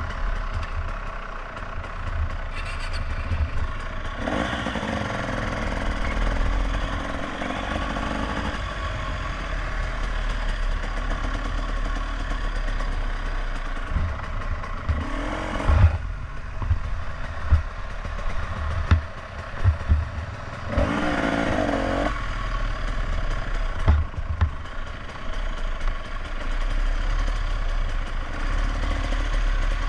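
Small motorcycle engine running at low revs, rising briefly in pitch three times as the throttle is opened, about four seconds in, midway and again a few seconds later.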